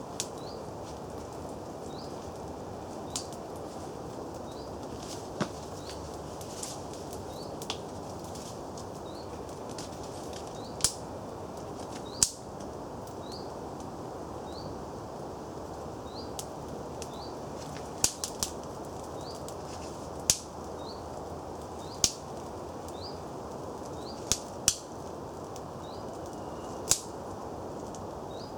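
Small twig kindling fire burning, crackling with sharp pops at uneven intervals over a steady hiss.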